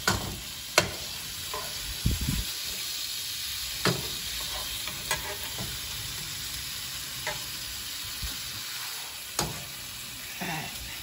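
Steak, pineapple rings and onion sizzling steadily in a frying pan, with a metal spatula clicking and scraping against the pan a few times as the food is moved about.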